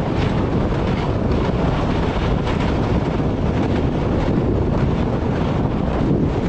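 A passenger train running along the track, heard from on board: a steady loud rush of wheel and track noise with wind buffeting the microphone.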